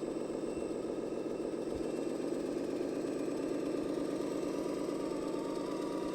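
RC model tractor's sound module playing a diesel engine running steadily, with a fast even pulse. A thin whine dips slightly in pitch near the end.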